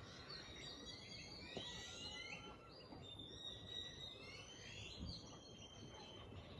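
Several birds chirping faintly, with overlapping short calls that rise and fall in pitch.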